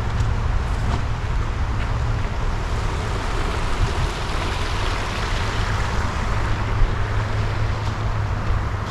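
Steady outdoor noise: wind buffeting the microphone with a low rumble, over a constant rushing hiss of road traffic.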